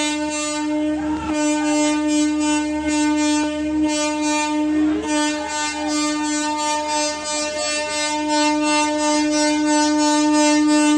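Train horn sounding one long, steady, unbroken blast, with a fast even clatter underneath.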